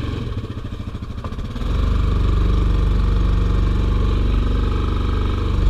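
ATV engine running unevenly at low revs, then about a second and a half in it picks up to a louder, steady run and holds there.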